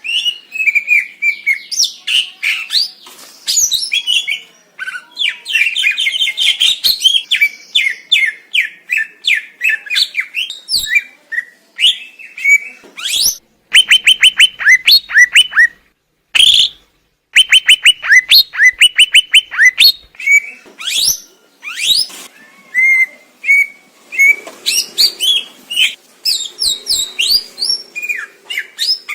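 Cucak ijo (green leafbird) singing a loud, varied song of quick chirps and whistled phrases. It includes fast runs of repeated falling notes in the middle of the song.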